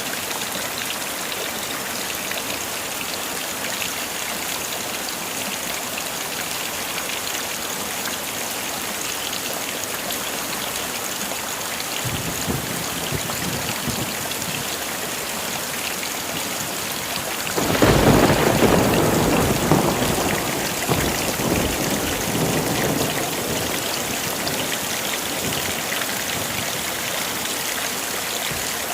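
Heavy rain falling steadily, with a thunderclap about two-thirds of the way through that begins suddenly, goes loudest, and rumbles away over several seconds; a fainter rumble comes a few seconds before it.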